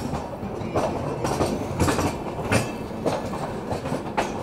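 Indian Railways passenger train running along the track: a steady rumble with irregular, sharp clacks of steel wheels over rail joints.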